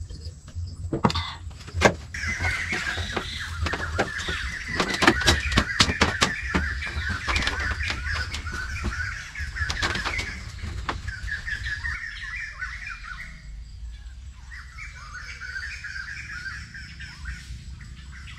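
Continuous chattering chirps, as of many small birds, with a run of sharp clicks and knocks through the first ten seconds over a low steady rumble.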